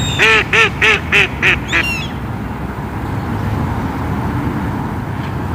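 A duck quacking six times in quick succession, the last quacks fainter, then stopping. A steady low rumble of background noise runs underneath.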